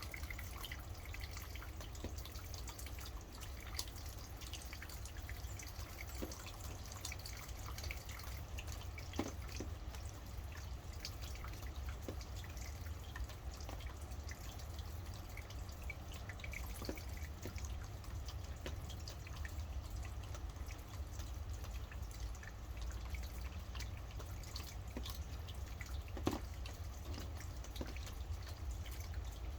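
Steady rain, with many separate drops dripping and striking close by, over a constant low rumble.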